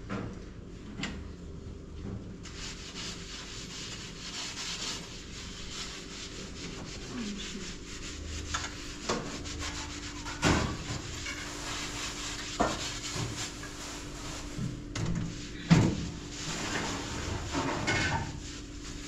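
Rubbing and scraping over a steady low hum, broken by several sharp knocks, the loudest about three quarters of the way through.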